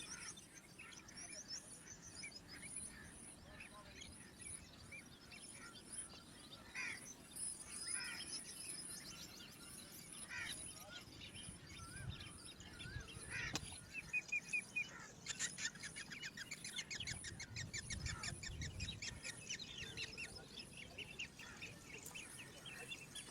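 Small birds chirping and calling, faint, with short sweeping notes and a fast run of rapid repeated notes about two-thirds of the way through. A steady high-pitched pulsing buzz runs underneath.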